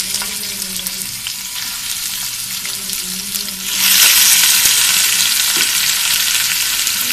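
Raw chicken pieces sizzling as they fry in hot ghee in a pan. The sizzle grows clearly louder about four seconds in.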